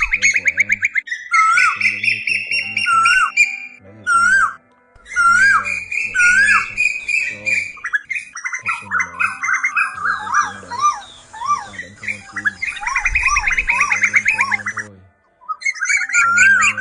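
Asian koel calls from a recording of male and female birds: fast bubbling trills mixed with repeated short rising-and-falling notes, in three long bouts with short breaks about four and a half seconds in and near fifteen seconds. It is a call-playback track made to lure koels.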